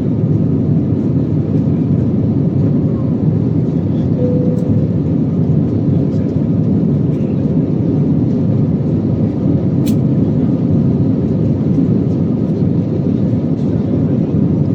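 Airbus A320 jet engines and airflow heard from inside the passenger cabin, a loud, steady noise that holds level throughout, with a single sharp click about ten seconds in.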